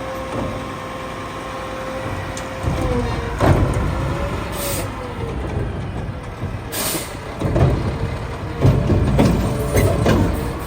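Mack LR McNeilus Meridian garbage truck working at the curb: a steady engine and hydraulic whine under repeated metal clanks and bangs, with two short sharp air hisses partway through.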